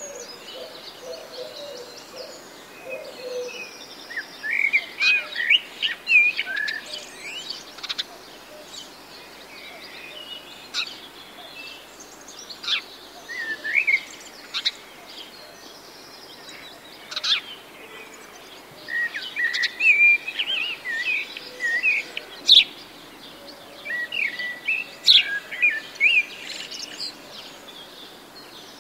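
Songbirds chirping and singing in short rising and falling phrases that come and go in clusters, with quiet stretches between.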